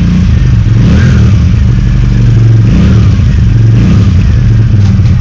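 Keeway Benda V302C's two-cylinder (V-twin) engine being revved, its exhaust note loud and rising in several throttle blips over a steady running sound.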